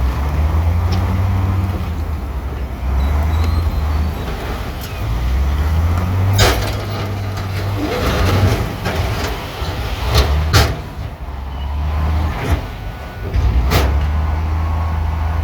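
Heavy diesel earthmoving machinery running, its engine rising and falling under load, with about five sharp clanks in the second half.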